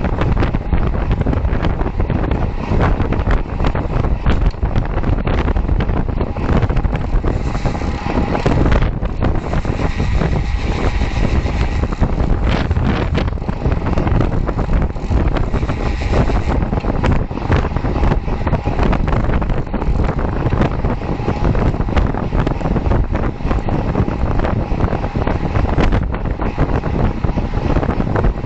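Wind buffeting a moving camera's microphone during a bicycle group ride: a loud, steady rushing noise, a little brighter and hissier for several seconds in the middle.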